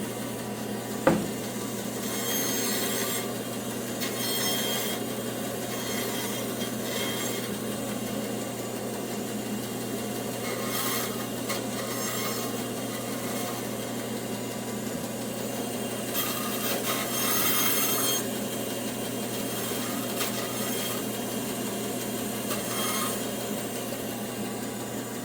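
Bandsaw running steadily while knots and rough spots are trimmed off tree-branch chair legs, in several short cutting passes with gaps between them. A single sharp knock sounds about a second in.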